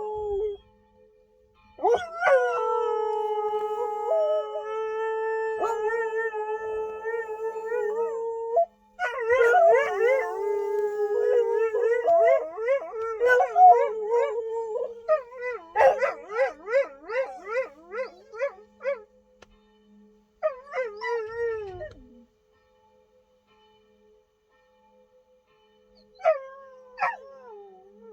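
Three dogs howling together, set off by church bells. It starts with one long, steady howl, then several voices overlap in wavering howls and yips, and it trails off to a single short howl near the end.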